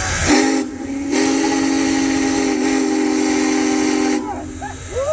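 Big Boy 4014's multi-chime steam whistle sounding a short blast and then a long held blast, a steady chord of several notes over hissing steam.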